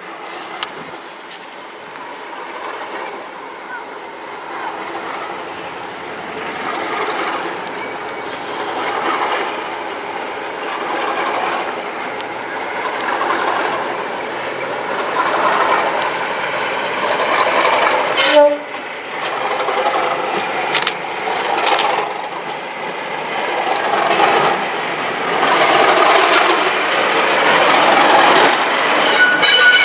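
Class 37 diesel-electric locomotive, its English Electric V12 engine working hard, growing steadily louder as it approaches, with the wheels clattering over the rail joints.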